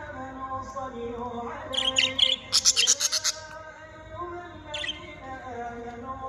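Pet small birds chirping: a quick run of sharp chirps about two seconds in and one more chirp near five seconds, over background music.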